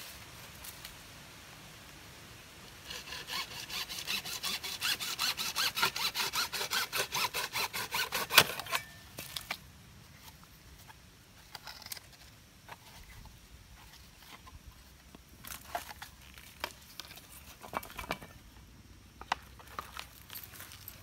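Sawing with quick, even back-and-forth strokes for about five seconds, stopping about eight seconds in. Scattered light taps and clicks of handling follow.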